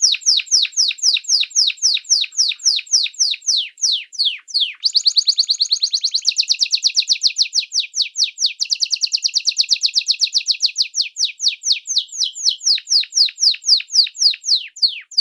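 Small songbird singing a long run of rapid whistled notes, each sliding down in pitch, about five a second. The notes quicken into a denser trill for several seconds in the middle, then slow again, and the song cuts off suddenly at the end.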